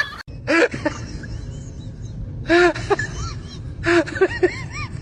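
An animal giving short pitched calls in three bursts, each call rising and falling in pitch.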